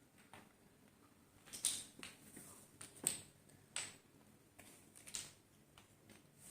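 Wooden Jenga blocks clicking against one another as they are set in place to stack a wall, a few separate sharp clacks a second or so apart.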